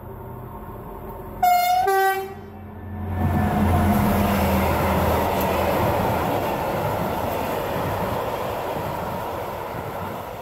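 Diesel locomotive sounding a loud two-note horn blast about a second and a half in, then running past with its freight wagons. The engine's low drone and the rumble and clatter of the wagons swell and then slowly fade.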